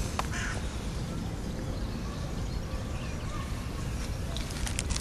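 Outdoor background of a steady low rumble, with a single bird call just after the start and a few faint clicks near the end.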